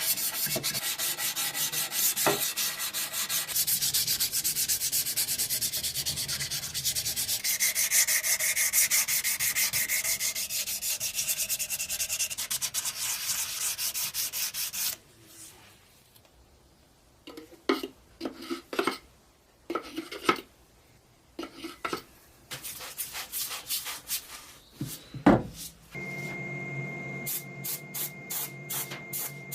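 Rapid, even strokes of sanding on rusty metal. About halfway through it stops abruptly, giving way to quieter scattered clicks and taps. Near the end a steady high tone with quick regular pulses starts.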